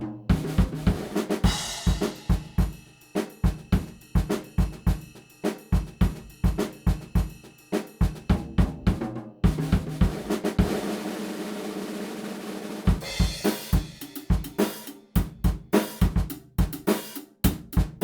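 Background music carried by a drum kit beat: kick, snare, hi-hat and cymbals in a steady fast rhythm. About halfway through the beat drops out for a few seconds under a held note, then a cymbal wash brings it back.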